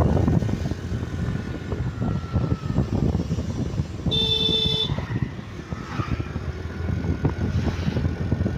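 Street traffic: a steady rumble of engine and road noise, with a vehicle horn honking once, for just under a second, about four seconds in.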